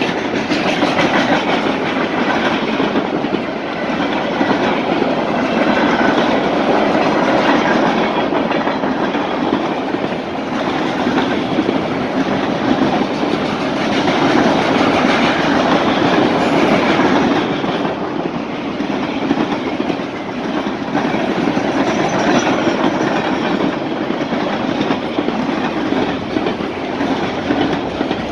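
Freight train cars rolling past, steel wheels clicking and rattling over the rails in a steady continuous rumble.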